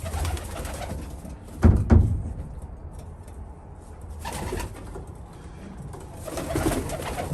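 Domestic pigeons cooing inside a small loft. Two loud bumps close together come a little under two seconds in.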